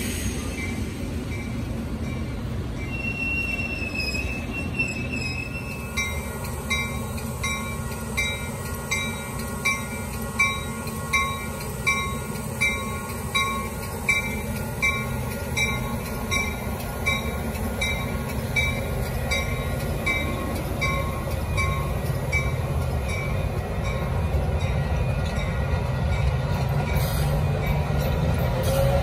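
Metra bilevel commuter train rumbling past, with a brief thin wheel squeal a few seconds in. From about six seconds in, a railroad crossing bell rings at a steady beat, about three strikes every two seconds, then fades after about fifteen seconds while the train noise grows louder.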